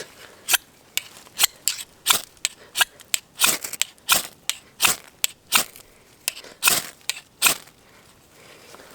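Ferrocerium rod scraped repeatedly with a striker to throw sparks onto fat wood shavings: about twenty quick, sharp rasps, two or three a second, that stop about seven and a half seconds in.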